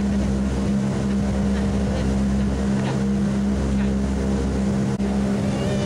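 Two-stroke marine engine running at a steady speed on premixed fuel, a newly fitted engine being broken in, with wind and water rushing.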